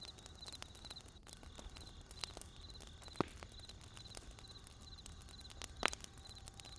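Burning wood crackling with scattered small snaps and two louder pops, one about three seconds in and one near six seconds. A faint high chirp repeats steadily a little over twice a second behind it.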